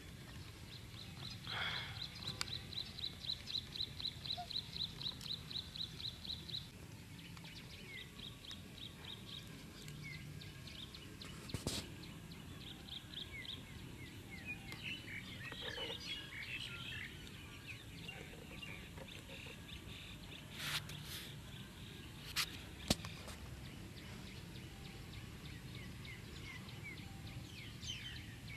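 Outdoor birdsong: a rapid run of high repeated notes, about four or five a second, for several seconds, then shorter runs and scattered chirps, over a steady low background hum. A few sharp clicks come past the middle.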